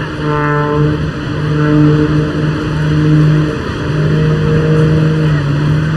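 Jet-assisted Pitts Special aerobatic biplane in flight, its engine giving a loud, steady drone that breaks off briefly about two-thirds of the way through and then returns.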